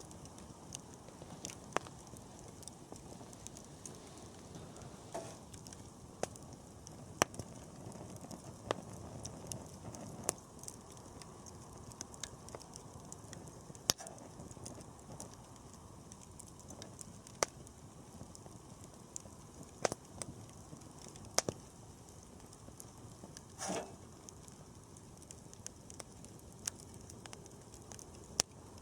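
Wood campfire burning with a low steady rumble of flame and irregular sharp crackles and pops, one slightly longer pop about three-quarters of the way through.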